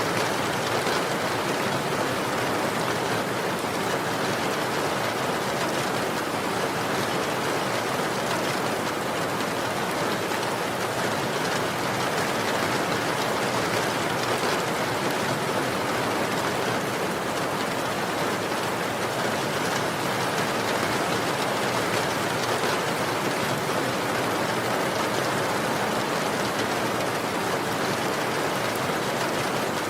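Steady, even rainfall: a continuous hiss of rain falling on a surface, with no single drops or thunder standing out.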